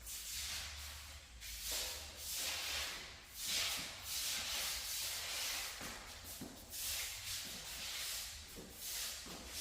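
Rubbing, rustling noise that swells and fades every second or so, with a few faint knocks.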